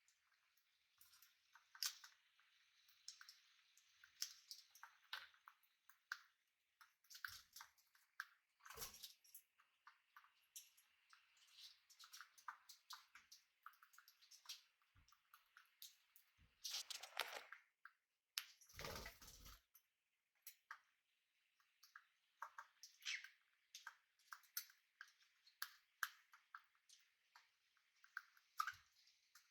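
Pet birds pecking and nibbling: faint, irregular small clicks and ticks from beaks and claws, with two louder rustles a little past the middle.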